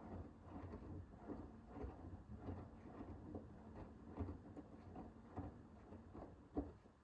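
Hoover H-WASH 500 front-loading washing machine's drum turning mid-wash, wet laundry tumbling and water sloshing in soft, irregular thuds over a faint steady motor hum. The tumbling stops near the end as the drum pauses.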